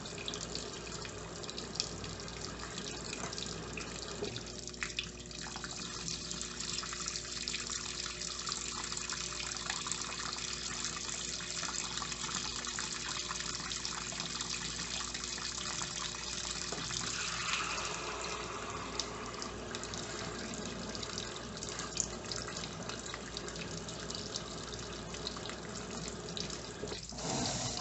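Electrolux LTE09 top-loading washing machine filling its tub with water through the small fabric-softener dispenser valve: a steady run and splash of water.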